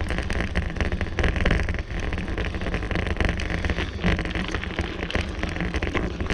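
Bicycle riding noise: wind buffeting the microphone with a steady low rumble and dense, rapid rattling and clicking.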